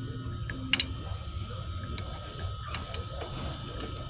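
Metal tools and clutch parts clicking and clinking during work on a motorcycle clutch: scattered sharp clicks, the loudest a quick double click just under a second in, over a steady low hum.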